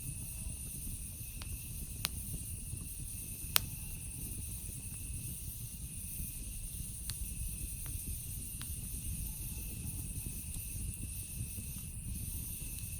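Campfire crackling with a few sharp, scattered pops, the loudest about three and a half seconds in, over a low steady rumble. A steady high chorus of night insects sings throughout.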